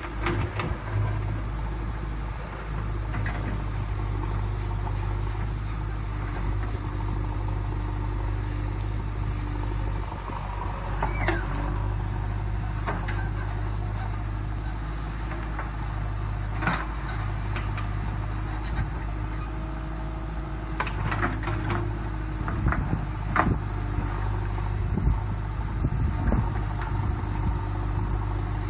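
JCB 3DX backhoe loader's diesel engine running steadily under work, with occasional sharp knocks, several of them close together about two-thirds of the way through.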